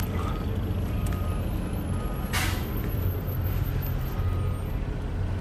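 Steady low rumble of a car heard from inside the cabin, with one brief sharp hiss a little over two seconds in.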